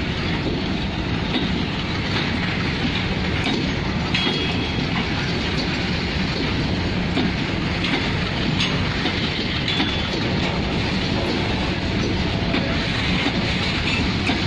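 Long freight train of covered goods wagons rolling past close by: a steady rumble of wheels and wagon bodies, with wheels clicking over the rail joints. Two brief high wheel squeals cut through, about four seconds in and near ten seconds.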